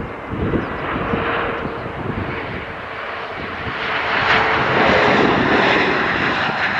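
Aircraft engines of a passing airliner, a steady rushing roar that swells louder about four seconds in, with a faint whine on top.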